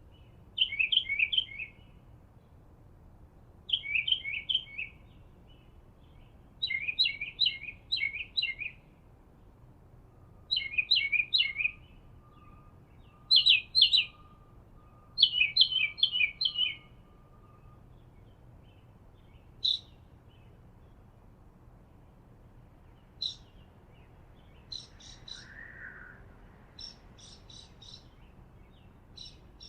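A songbird sings short phrases of quick, high, repeated notes, one every two to three seconds. After about eighteen seconds the phrases give way to scattered single chirps.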